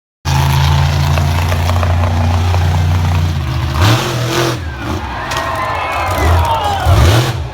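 Monster truck engine running with a steady low drone, then revving up and down from about halfway through.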